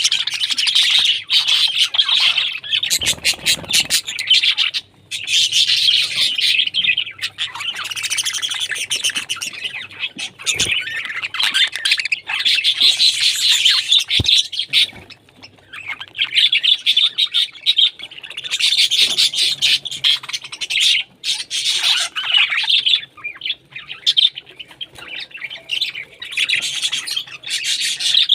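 A flock of caged parrots chattering and chirping almost without pause, with louder shrill squawks mixed in.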